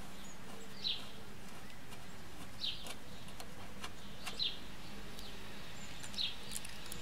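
A bird calling outdoors: one short, high call repeated about every second and a half to two seconds, with a few faint light clicks and a steady low hum underneath.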